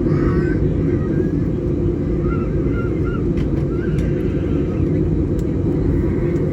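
Steady airliner cabin noise: a low rumble of engines and air conditioning heard from inside the cabin, with faint distant voices partway through.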